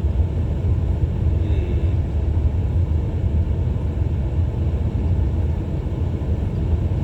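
Steady low rumble of a car's engine and tyres on a snowy road, heard from inside the cabin while driving slowly.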